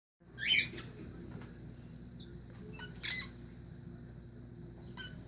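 Pet bird giving short chirps and squawks: two loud calls, about half a second in and about three seconds in, with fainter tweets and clicks between, over a steady low hum.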